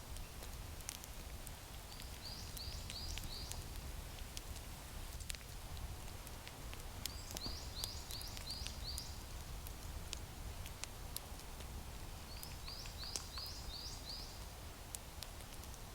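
A small bird singing a short phrase of four or five quick, high, clipped notes, repeated three times about five seconds apart, over a low steady rumble and scattered faint clicks.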